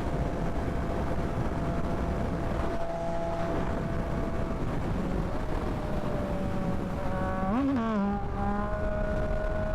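Yamaha MT-09's three-cylinder engine running at steady speed under a rush of wind noise. About seven and a half seconds in, the revs swing quickly up and back down, as in a gear change, and then the engine pulls again with slowly rising pitch.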